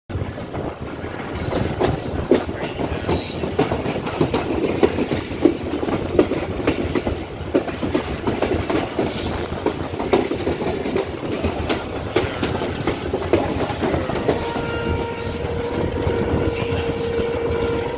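Passenger train running, heard from an open door or window of a carriage: a steady rumble and rush, with the wheels clicking and clattering over rail joints and points. About three-quarters of the way through, a steady high tone comes in and holds.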